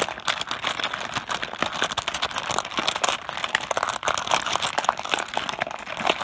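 Mahjong tiles clattering on a tabletop: a dense, continuous stream of small hard clicks as the tiles knock against each other and the table.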